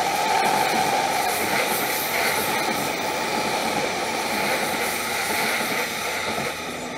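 Keihin-Tohoku Line E233 series commuter train running past on the near track, a steady rumble of wheels and running gear that fades near the end as its last car goes by.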